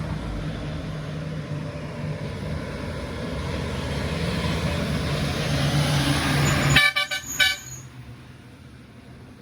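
Loaded truck's diesel engine running as it passes close by, growing louder, then a quick series of short horn toots about seven seconds in, after which the engine sound falls away.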